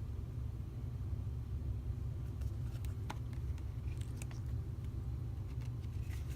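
Steady low background rumble, with a few faint light clicks and rustles from about halfway through as a deck of oracle cards is handled.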